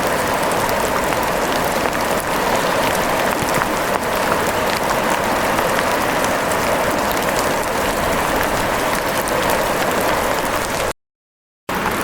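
Steady rain patter with scattered sharp drop ticks. It cuts out to silence for under a second near the end, then resumes.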